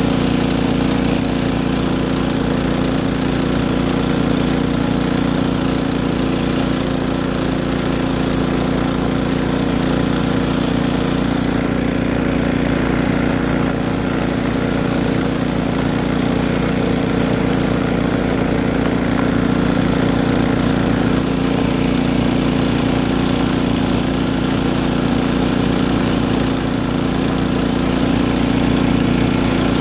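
Snowblower's small gas engine running steadily at working speed.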